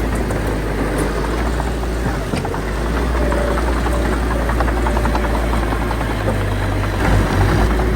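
Heavy diesel engine of a bulldozer running steadily at work, with a rapid metallic clatter over the low drone. The engine note shifts briefly near the end.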